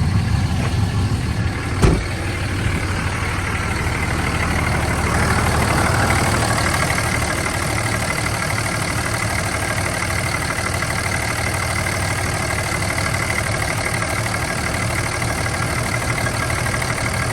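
Dodge Ram's 5.9 Cummins inline-six turbo diesel idling steadily, with a short thump about two seconds in and a steady high whine joining from about six seconds on.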